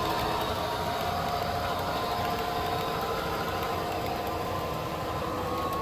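Amtrak SDP40F locomotive with its passenger train, engine running at a steady drone with a few faint steady tones over it.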